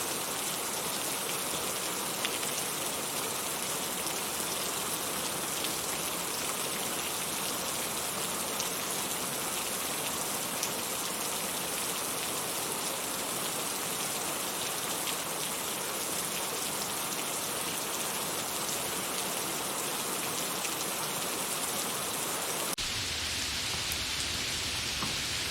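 Steady rain falling, with scattered light drop ticks. Near the end it changes abruptly to a deeper, fuller hiss with more low rumble.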